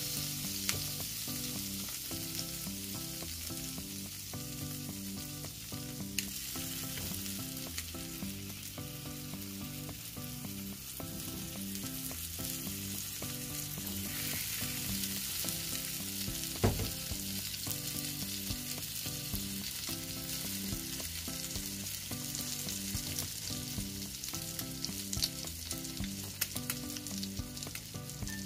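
Butter sizzling in a cast iron skillet, then egg-soaked bread frying in it as French toast. The sizzle grows louder about halfway through when the bread goes in, and there is a single sharp knock shortly after. Background music with a stepping note pattern plays under it.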